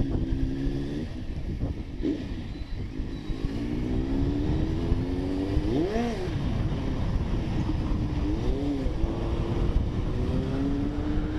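Superbike engine running in traffic, revved sharply twice, the pitch shooting up and dropping back about halfway through and again a couple of seconds later, over steady road noise.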